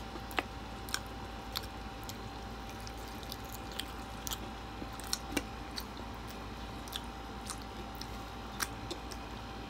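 A person chewing fried chicken close to the microphone: short, sharp mouth smacks and clicks, irregular, about two a second, over a faint steady hiss.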